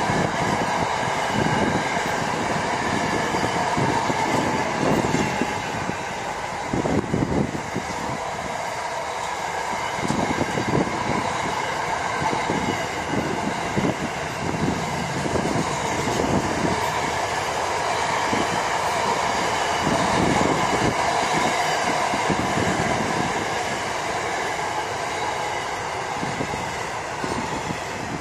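Double-stack container freight train wagons rolling past at speed: a continuous rumble of steel wheels on rail with irregular clattering, and a faint steady whine above it.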